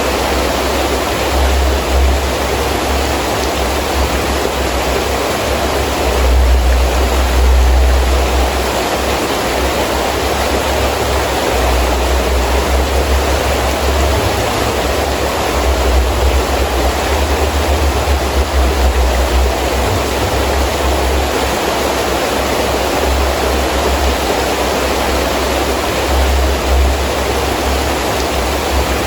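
Heavy rain falling steadily, with wind gusting in a low rumble that swells and fades, strongest about six seconds in and again a few seconds past the middle.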